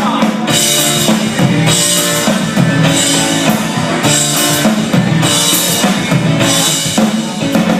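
Rock band playing an instrumental stretch of a song: a drum kit with cymbal crashes about once a second over sustained guitar chords.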